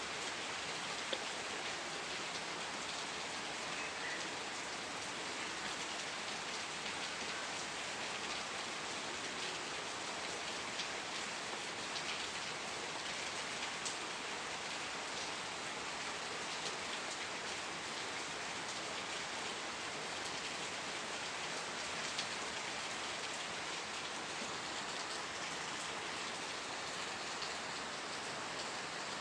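Steady rain falling on a surface, a continuous hiss with individual drops ticking through it.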